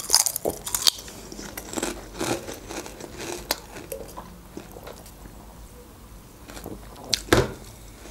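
Close-miked crunching as a stacked potato chip is bitten and chewed, then quieter sipping of beer through a straw, with one sharp knock near the end.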